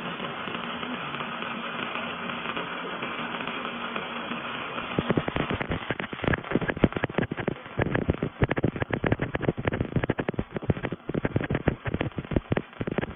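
Robotic arc welding on a pipe elbow: a steady hiss for about five seconds, then the arc crackling densely and irregularly, the sputtering typical of wire-fed (MIG) welding.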